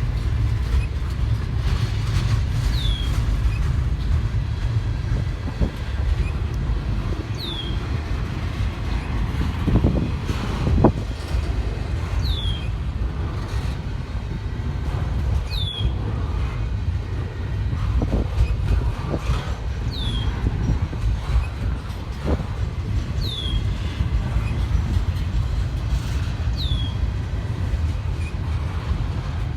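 CSX intermodal freight train rolling slowly past: a steady low rumble of the cars on the rails, with a few clanks along the way.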